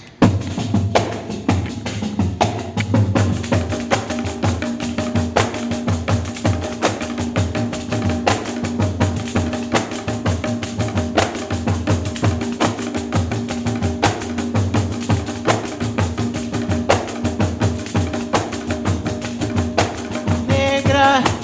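Pandeiro ensemble playing a fast, dense groove over sustained pitched tones. The music starts suddenly. A singing voice comes in near the end.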